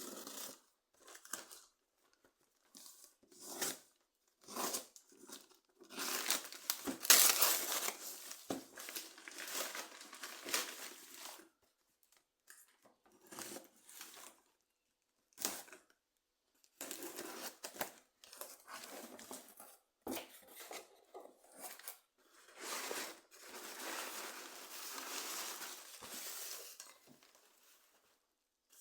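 Packaging being opened by hand: tearing and crinkling in irregular bursts with short pauses, with longer stretches about a quarter of the way in and again in the second half.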